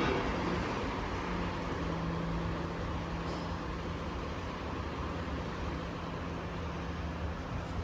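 Steady low rumble and hiss with a constant low hum, unchanging throughout.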